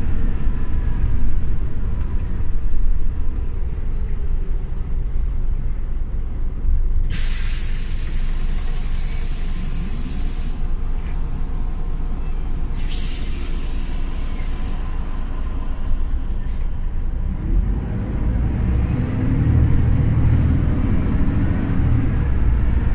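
Scania OmniLink CL94UB city bus's diesel engine running steadily, with two loud hisses of compressed air from its air system about seven and thirteen seconds in, each lasting two to three seconds. The engine grows louder near the end as the bus pulls away.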